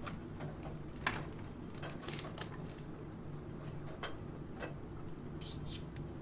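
Computer keyboard typing: irregular keystroke clicks, with a steady background of rain underneath.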